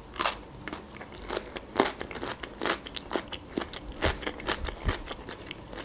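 A raw cucumber piece being bitten and chewed: an irregular run of crisp crunches, several a second.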